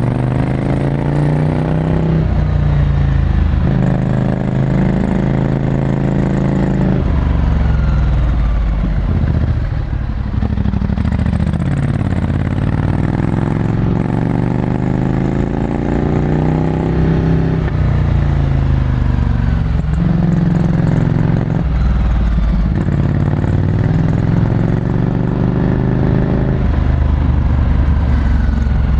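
Ducati Scrambler Desert Sled's 803 cc air-cooled L-twin, fitted with a full Termignoni exhaust, heard from the rider's seat. The engine note rises under throttle and falls away again several times as the bike accelerates, changes gear and rolls off for corners.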